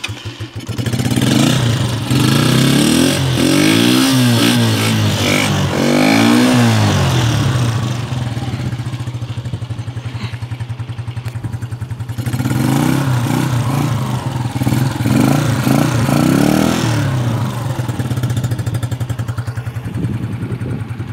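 Shinari Taipar 50cc motorcycle engine running after starting. The throttle is blipped several times a few seconds in and again about halfway through, the pitch rising and falling with each blip. Between and after the blips it settles back to a steady idle.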